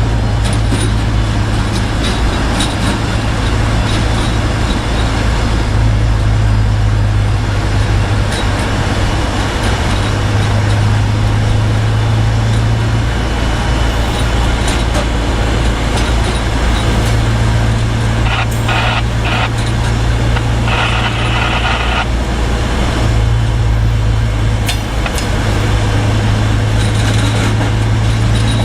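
An engine running steadily with a loud, even low drone, broken by a few short bursts of hissing noise about two-thirds of the way through.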